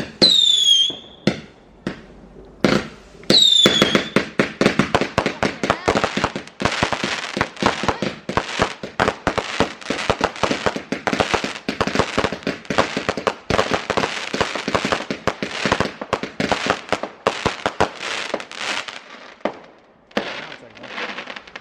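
Fireworks going off: two whistling fireworks near the start, each whistle dropping in pitch and then holding, then a long, fast crackling barrage of small bangs that dies away near the end.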